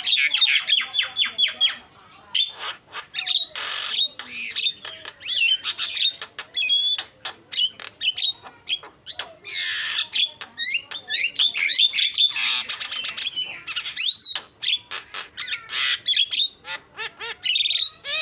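Javan myna (jalak kebo) chattering without pause: fast runs of clicks mixed with harsh squawks and quick sweeping whistles, with a short break about two seconds in.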